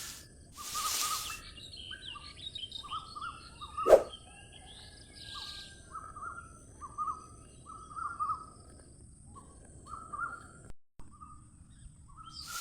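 Birds chirping in short, irregular calls, with a faint steady high whine. A single sharp click about four seconds in.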